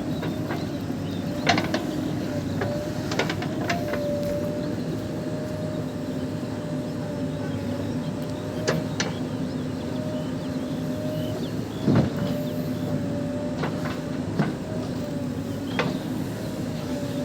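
Diesel engine of a JCB 3DX backhoe loader running steadily under load with a faint whine over the hum. Short sharp knocks and clanks come now and then, a louder one about twelve seconds in.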